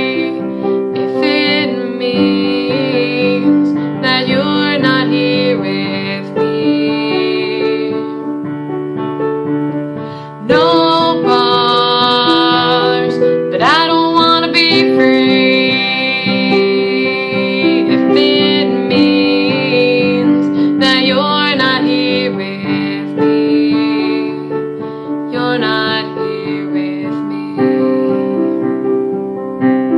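A piano playing sustained chords under a woman singing long, gliding phrases, with short gaps between the sung lines.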